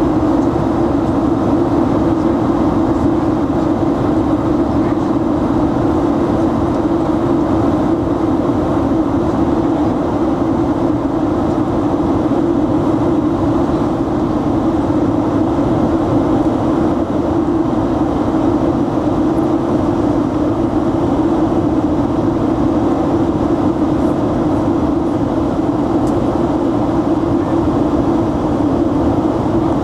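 Steady drone inside an airliner's passenger cabin in flight: jet engine and airflow noise with a low hum, unchanging throughout.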